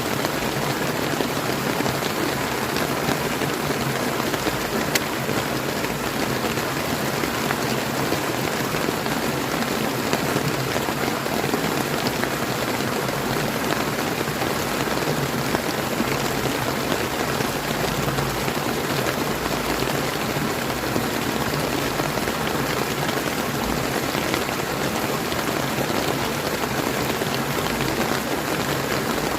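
Steady rain falling together with a flowing river, an even hiss that holds unchanged throughout.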